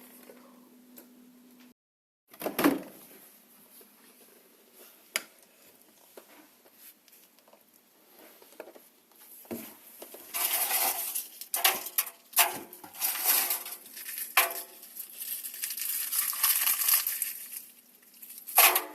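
Faint steady hum that cuts off about two seconds in, then a thump and scattered clicks, building from about halfway into irregular crunching and clinking of small hard objects being handled.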